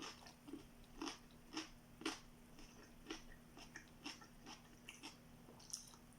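Faint close-up chewing: soft wet mouth clicks and small crunches of food at an irregular pace, over a faint steady hum.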